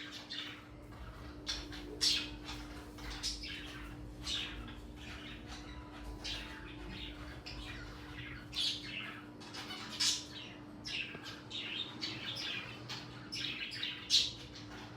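Birds chirping and squawking in many short, quick calls, with a steady low hum underneath.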